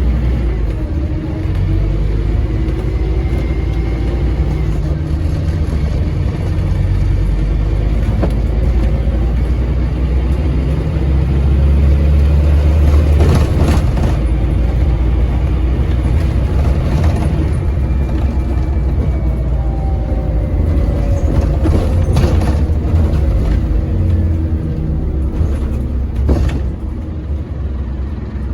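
Scania N230UD double-decker bus's five-cylinder diesel engine pulling hard at full throttle, its revs held long in gear by the ZF Ecomat automatic gearbox. The pitch climbs near the start and again about two-thirds of the way through, over a heavy low rumble, with a few short rattles.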